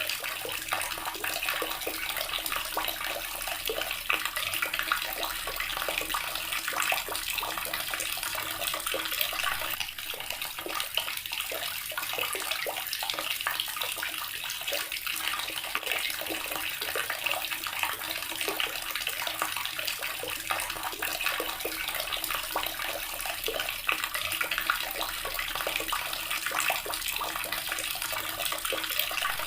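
Water tap running steadily, the stream splashing into a basin or tub below.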